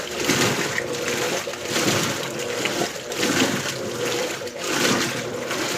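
Electrolux LBU15 top-loading washing machine agitating on turbo agitation, water and clothes sloshing in the tub in regular surges about once every second or so.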